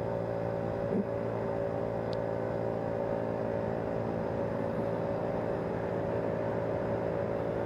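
Vehicle running at a steady speed while driving: a constant engine and road drone with several held tones that stay level throughout.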